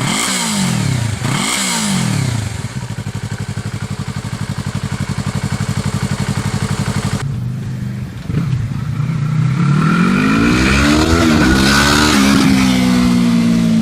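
Yamaha R3's parallel-twin engine, with its muffler removed and only the catalytic converter left on the pipe. It is revved in quick blips, then idles with an even pulsing beat. After a short break it climbs steadily in pitch with two brief dips, then holds at a higher speed.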